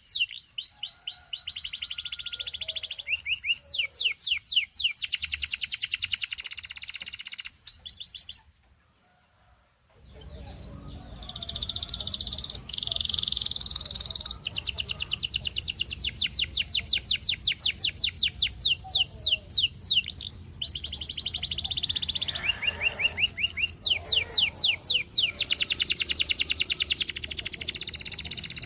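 A canary singing fast trills of rapidly repeated, downward-sweeping high notes, phrase after phrase. The song breaks off about eight seconds in for over a second of near silence. It then resumes over a faint low hum.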